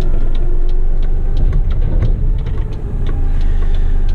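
Heavy rigid truck's engine running with a steady low rumble, with scattered light clicks over it.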